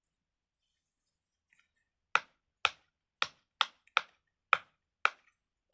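Bubbles of a silicone pop-it fidget toy being pressed in one after another: seven short, sharp pops, about two a second, starting about two seconds in.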